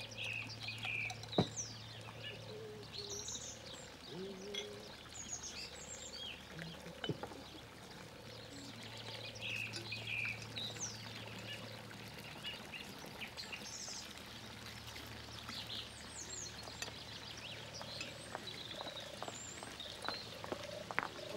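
Outdoor garden ambience of small birds chirping and calling throughout, many short quick notes, over a low steady hum.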